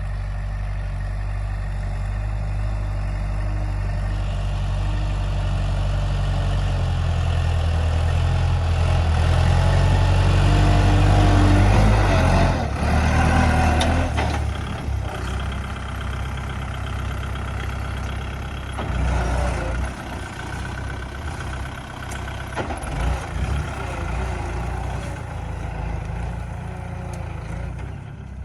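Kubota L5018SP tractor's diesel engine running, growing louder over the first twelve seconds, then dropping off suddenly and running on at a lower, uneven level.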